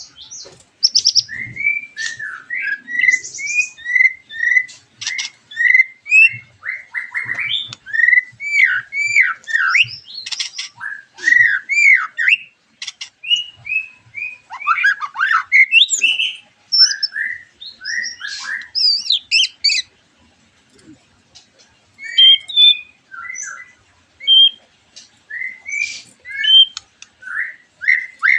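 White-rumped shamas singing in a dense chorus: rapid, varied whistled phrases, sweeping notes and sharp chirps one after another, with a short pause about two-thirds of the way through.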